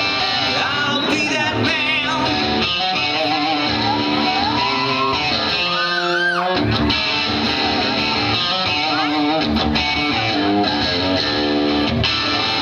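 Live band music: guitars playing with a singer's voice over them.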